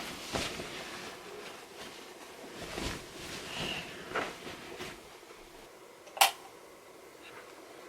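Quiet handling sounds in a small room: a few soft rustles and knocks, then a single sharp click about six seconds in.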